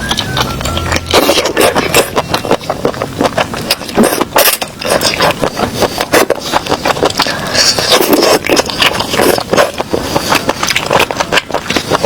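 Close-up eating sounds: seafood being crunched and chewed, with dense irregular clicks and crackles and short wet smacking swells.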